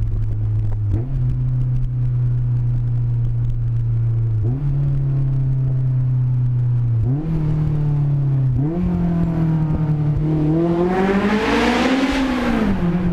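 Honda S2000's four-cylinder engine running with an open header, straight-piped, heard from inside the car. The revs climb in several steps, each with a brief dip, then the engine revs up hard to high rpm about twelve seconds in, the loudest part, and falls back.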